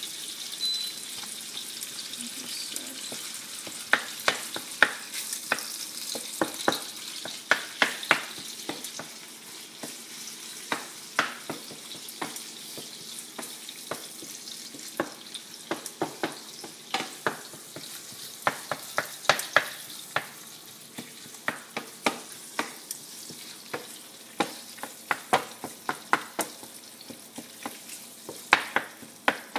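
Ground pork and soybean paste sizzling in oil in a small frying pan, with a steady high hiss. A wooden spatula stirs and scrapes the pan throughout, its strokes heard as many short knocks and scrapes in irregular runs.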